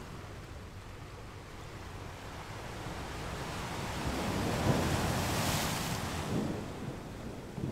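A soft, spongy muffin being torn open by hand in its paper liner. It makes a rustling, tearing noise that builds up, peaks about five seconds in, then fades.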